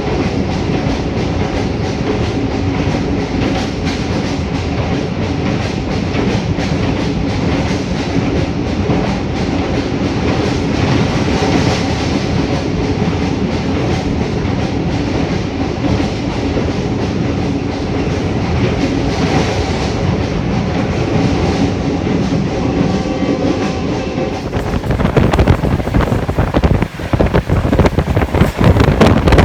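Passenger train running at speed, heard from on board: a steady rumble of the coaches with the wheels clattering over the rail joints. About five seconds before the end, gusty wind buffeting the microphone takes over.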